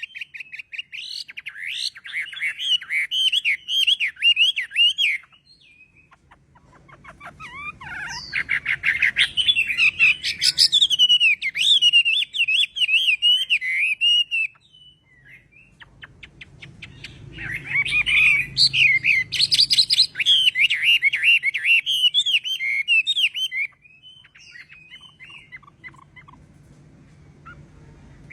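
Chinese hwamei (họa mi) singing: three long phrases of quick, varied whistled notes with short pauses between them, and a faint low hum beneath the later two.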